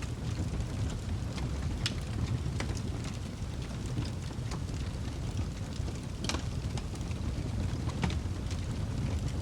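Wood fire burning in a fireplace: a steady low rumble of flames with scattered sharp crackles and pops from the burning logs, the loudest about two seconds in and again past the six-second mark.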